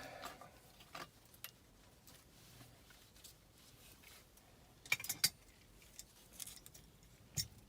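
Light, scattered metallic clicks and clinks of gas furnace in-shot burners and their sheet-metal parts being handled, with a quick cluster of clicks about five seconds in.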